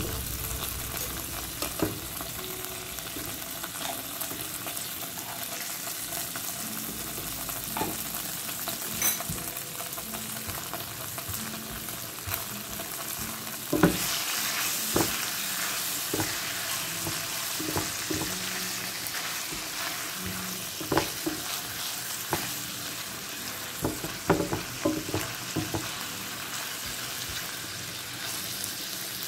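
Liver pieces and garlic sizzling in hot oil in a frying pan, stirred with a silicone spatula that knocks and scrapes against the pan now and then, loudest about 14 seconds in.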